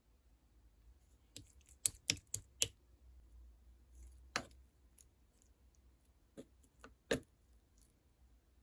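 Sharp clicks and taps at an irregular pace: a quick run of about five in the second and third seconds, then single ones, the loudest about seven seconds in.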